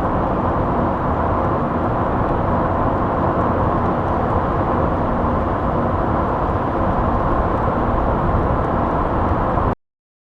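Library sound effect of a car driving: steady engine and road noise with no rise or fall in pitch, played back on its own, which cuts off suddenly near the end.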